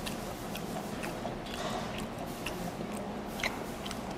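A person chewing food with the mouth closed: soft, wet mouth clicks and smacks at an irregular pace, a few each second.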